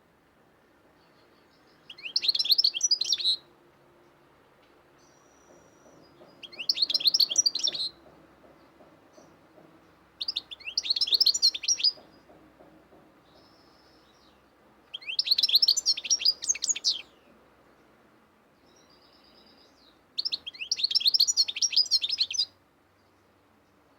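Cage bird singing in five bursts of rapid, high chirping notes, each about two seconds long, with pauses of a few seconds between them and a few fainter chirps in the gaps.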